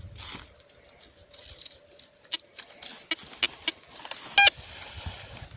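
TX 850 metal detector giving a short, high beep about four and a half seconds in, amid scattered clicks and rustles of handling and footsteps. A faint steady tone fades out about two seconds in.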